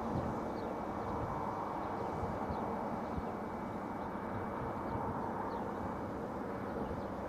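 Diesel freight locomotive running, a steady rumble with a faint constant hum.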